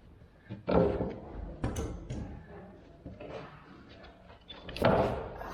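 A hydraulic cylinder's piston being worked out of its barrel by hand: metal sliding and knocking in uneven strokes, with two louder scraping bursts, one near the start and one near the end.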